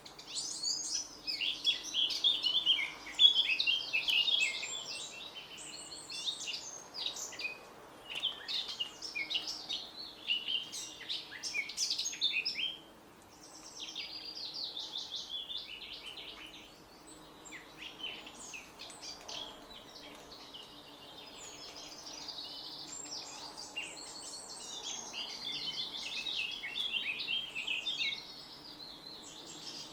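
Several birds singing and chirping at once in a dense, overlapping chorus of quick high trills and twitters, with a brief lull about halfway through. A faint low hum runs beneath.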